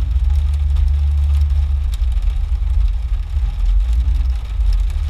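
Jeep engine idling, a steady low rumble heard from inside the cabin.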